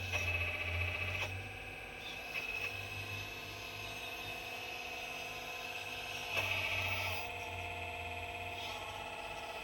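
4200XL excavator working, with a steady high whine over a low hum that grows louder for about a second at the start and again about two-thirds of the way through.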